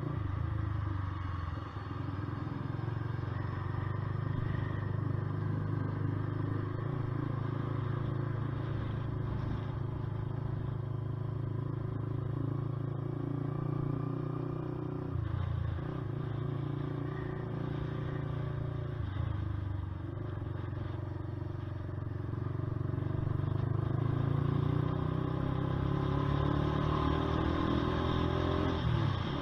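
Honda CBR125R's single-cylinder 125 cc four-stroke engine running under way. The engine note breaks briefly twice around the middle and rises in pitch near the end.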